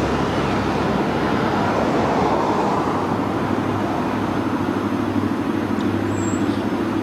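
An engine running steadily: a low hum under a continuous rumble.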